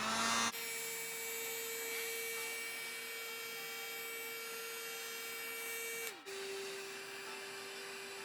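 A small electric motor, such as a handheld power tool, spins up and runs with a steady whine. About six seconds in, it briefly dips and settles at a slightly lower pitch.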